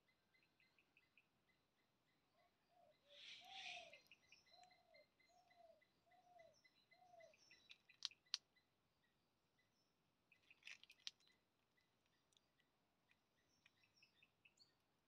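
Faint outdoor birdsong: a run of short, low arched hooting notes, about one every two-thirds of a second, over a steady train of high, quick chirps. A few sharp clicks stand out, two of them about eight seconds in.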